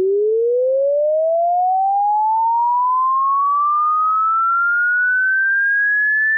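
A single pure electronic tone sweeping smoothly and steadily upward in pitch, from a low mid hum to a high whistle.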